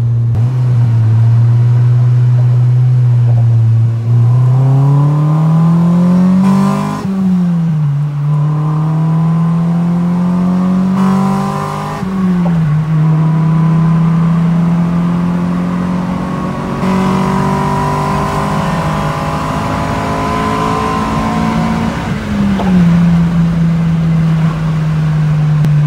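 1999 Honda Civic Si's B16A2 four-cylinder engine, breathing through a Spec D Tuning cat-back exhaust and cold air intake, heard from inside the cabin while driving and accelerating. The engine note climbs and drops sharply at an upshift about seven seconds in and again about twelve seconds in. It then holds and creeps upward, with another sharp dip near the end.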